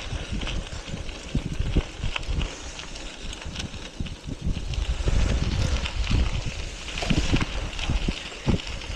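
Wind buffeting the microphone during a bicycle ride: a gusty low rumble that swells and fades, with a few small knocks and ticks from the ride.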